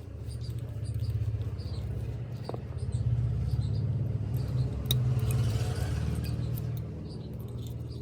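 A low, steady engine-like drone, louder in the middle and easing off near the end, with faint high chirps repeating about twice a second and a single sharp click about five seconds in.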